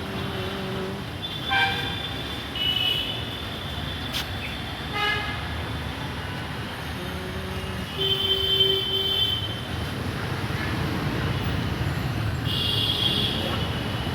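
Road traffic rumbling steadily, with several short vehicle horn toots over it.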